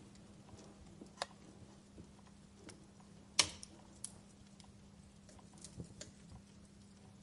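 Campfire crackling: scattered sharp pops and snaps of burning wood, one loud pop about three and a half seconds in, over a faint steady hum.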